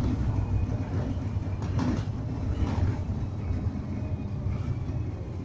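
Inside a moving bus: the engine and drivetrain run with a steady low rumble, and there are brief rattles about two and three seconds in.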